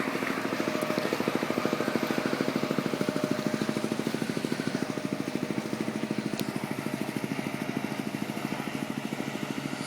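A small motorboat's outboard engine running steadily at low speed, with a fast, even pulsing beat, a little louder in the first few seconds.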